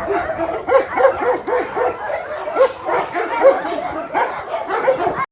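Several dogs barking and yapping over one another, a quick run of short barks several times a second.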